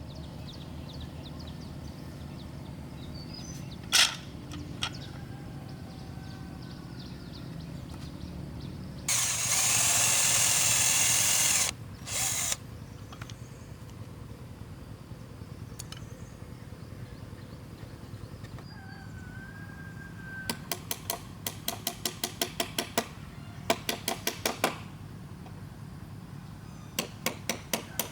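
Bamboo woodworking sounds. A power tool, likely a drill, runs for about three seconds near the middle. Later come two quick runs of sharp, evenly spaced taps, about four a second.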